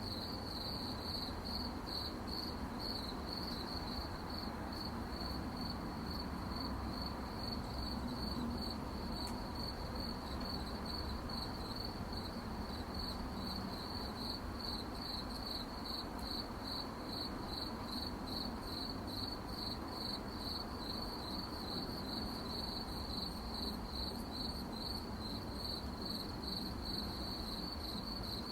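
Crickets chirping steadily: an even, high-pitched pulse repeating about three times a second, with no break, over a faint low rumble.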